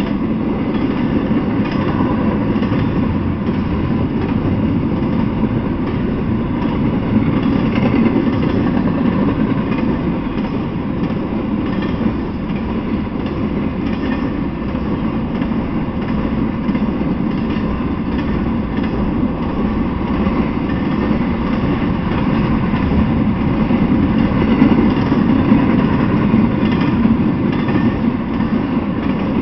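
Intermodal freight train's cars, loaded with containers and highway trailers, rolling past steadily on the rails.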